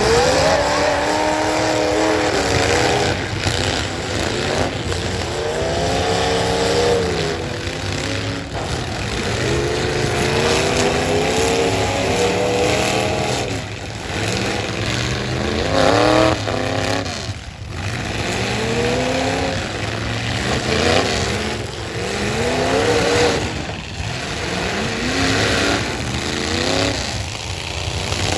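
Stock pickup truck engines revving hard, over and over, their pitch climbing and dropping as the trucks accelerate and back off in a demolition derby.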